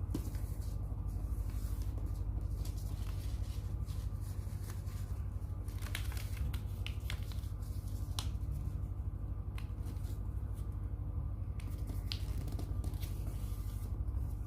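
A sheet of paper being handled and folded, with short crinkles and crisp clicks as the creases are pressed, over a steady low hum.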